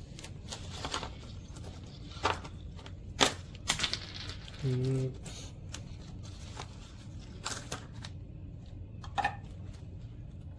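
Ice cubes being handled and dropped into hot brewed coffee: a scattered series of sharp clinks and knocks, with a brief vocal hum about halfway through.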